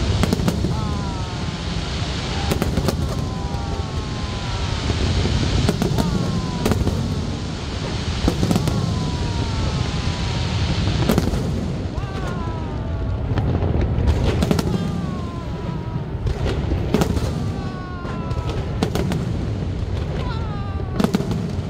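Fireworks display: a fast, irregular series of sharp bangs from bursting aerial shells over a steady low rumble, with many short whistles that fall in pitch.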